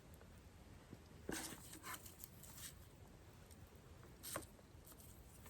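Wood campfire burning quietly, with a few sharp crackles and pops.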